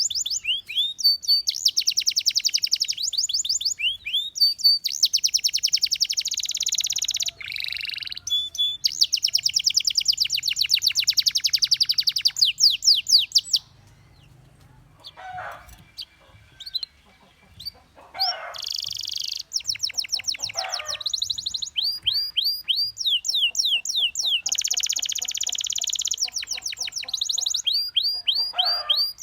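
Domestic canary singing: long, fast trills of rapidly repeated high sweeping notes in runs of a second or more, with a quieter break of a few seconds near the middle before the trills start again.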